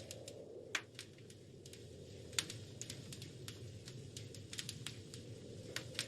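Wood fire crackling in a fireplace: irregular sharp pops and snaps, a couple of them louder, over a steady low rumble of the burning fire.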